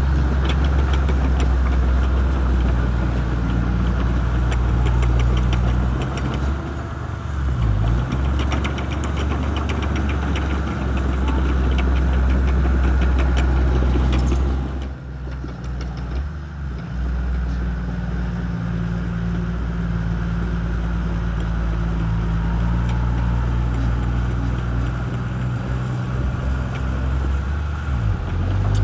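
Shantui crawler bulldozer's diesel engine running steadily under load, with a fast ticking for a few seconds. About halfway through the engine eases off briefly, then picks up again.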